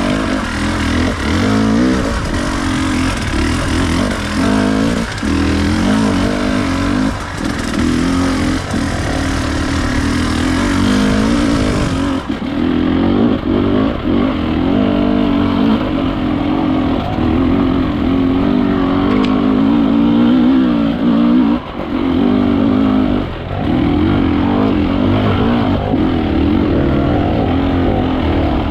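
Enduro dirt bike engine running under constantly changing throttle, with several brief throttle chops. The sound turns duller about twelve seconds in.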